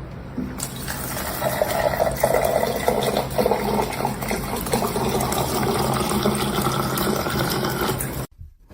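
Steady rush of running water, starting just under a second in and cutting off sharply shortly before the end.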